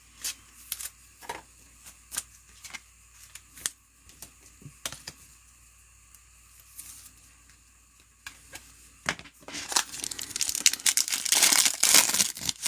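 A few light taps and clicks of trading cards being handled, then, about nine seconds in, a trading-card pack's wrapper being torn open with loud, continuous crinkling.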